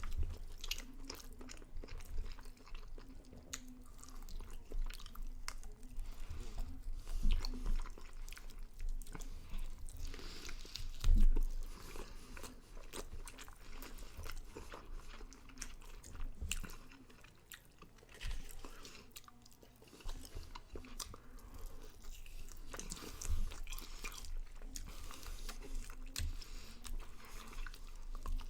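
A person chewing and biting into smoked chicken wings at a fast pace, with wet smacking and small crunches from pulling meat off the bone. There is one loud low thump partway through.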